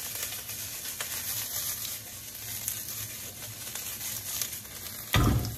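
Chopped scallions and ginger sizzling in hot oil in a nonstick pan as it is tossed over a gas burner, a steady frying hiss with faint ticks. A loud, short thump comes near the end.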